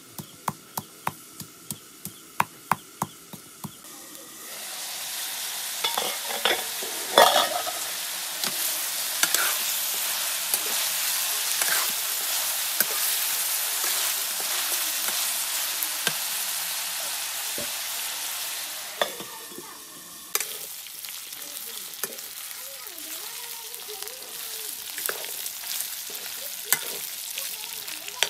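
Regular sharp clicks, about three a second, from a stone mortar, then about four seconds in a loud frying sizzle sets in as pork curry cooks in a steel karahi over a wood fire, with ladle scrapes and knocks as it is stirred. About twenty seconds in the sizzle drops to a quieter hiss.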